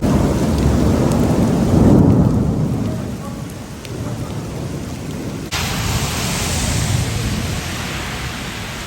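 Thunder rolling and rumbling over a heavy downpour, loudest about two seconds in and fading out. About five seconds in, the hiss of the heavy rain steps up suddenly.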